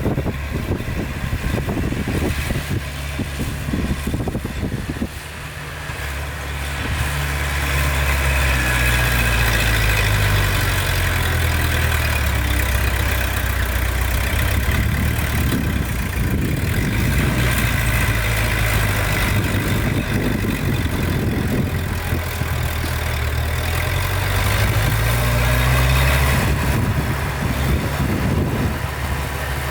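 Heavy diesel engine of earthmoving machinery running, its pitch rising and falling several times as it revs up and eases off under load. It grows louder about seven seconds in.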